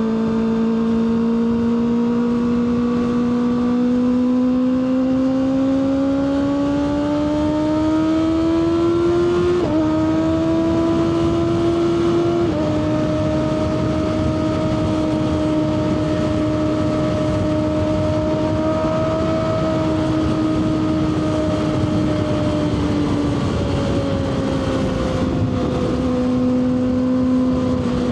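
Kawasaki ZX-6R 636's inline-four engine pulling steadily up through the revs, shifting up twice about ten and twelve seconds in, then holding a steady high-revving cruise before easing off near the end, over constant wind noise.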